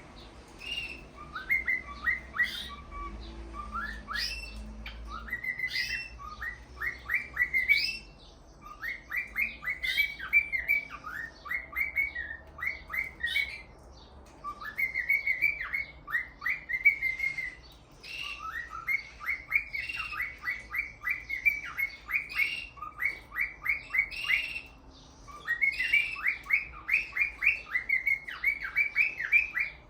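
Male cockatiel singing: phrases of quick, repeated chirping notes strung together, broken by short pauses.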